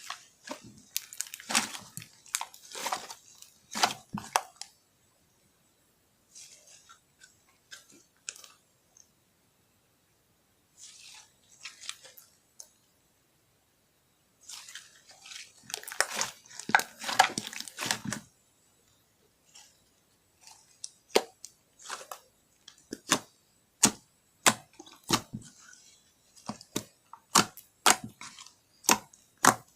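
Glitter slime being squished and stretched by hand: bursts of wet, sticky crackling separated by short quiet pauses. In the second half it turns into a run of sharp pops, one or two a second, as air pockets in the slime burst.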